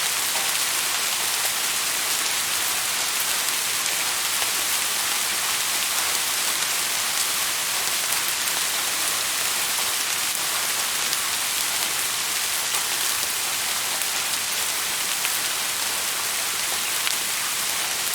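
Steady rain falling on a surface, an even hiss strongest in the high range with fine scattered drop ticks.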